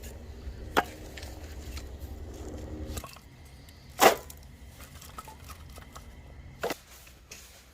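Firewood being chopped: three sharp wooden knocks spaced a few seconds apart, the loudest about four seconds in. A low hum underneath stops about three seconds in.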